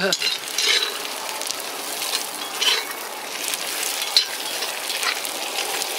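Carrots and onion sizzling steadily as they fry in pork fat and butter in a cast-iron pot, with a metal spatula scraping the pot as they are stirred several times.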